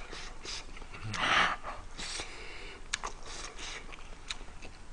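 A person eating with close-miked mouth sounds: chewing and wet smacks with small clicks, and a louder breathy sound about a second in.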